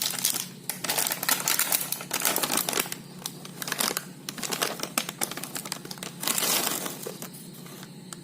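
Crinkly plastic snack packet of potato crackers rustling and crackling in several bursts as it is handled and opened.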